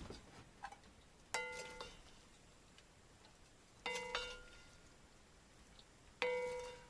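Dishes and cutlery clinking: three light, ringing clinks a couple of seconds apart, the middle one a quick double.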